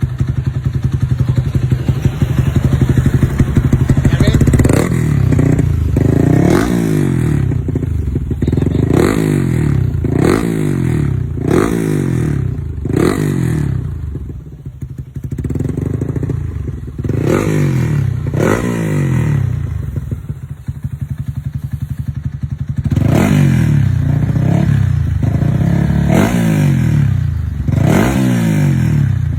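Yamaha Exciter 150's single-cylinder four-stroke engine through a UMA Racing V4 TRU aftermarket exhaust, being blipped again and again: each quick throttle rev rises sharply and falls back to a loud, lumpy idle. It settles to idle alone for a couple of seconds twice near the middle.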